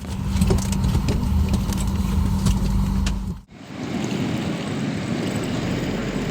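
Boeing 737 cabin at the stand: a steady hum with scattered clicks and clatter as passengers unbuckle seatbelts and open overhead lockers. About three and a half seconds in it cuts off abruptly to a steady hiss.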